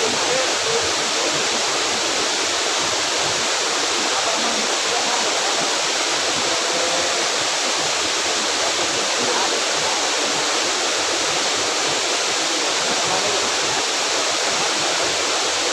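A waterfall's steady rushing roar of falling water.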